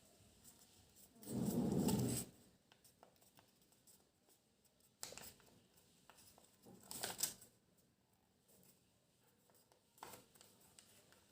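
Sheet of origami paper being folded and creased by hand, rustling and crackling in a few short bursts, the loudest and longest a little over a second in.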